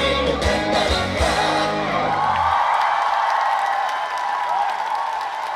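A live band's trot song ends with a final hit about two and a half seconds in, then a crowd cheers and screams.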